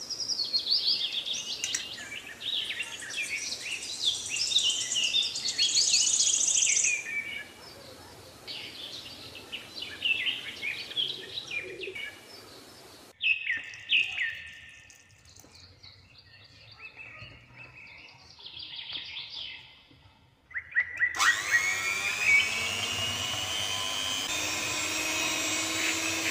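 Birds chirping and twittering in quick runs of short calls. About 21 s in, an electric hand mixer starts and runs steadily, its beaters in flour and water.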